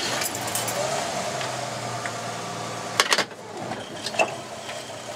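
1954 Chevrolet 210 station wagon's straight-six engine idling, heard from inside the cabin. A sharp click comes about three seconds in, after which the sound is quieter.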